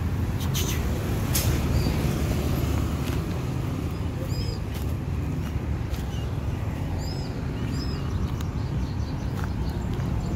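A few short, high chirping bird calls, heard around the middle of the stretch, over a steady low rumble.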